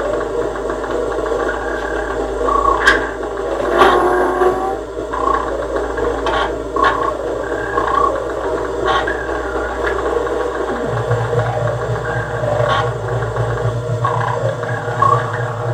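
Experimental electronic noise music: a dense droning texture with scattered sharp clicks and short metallic pings. A deeper steady hum comes in about two-thirds of the way through.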